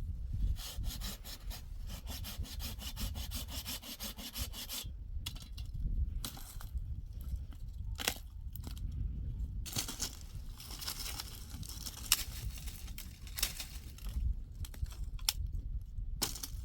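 Wood being sawn by hand in spells of rasping strokes, broken by short pauses.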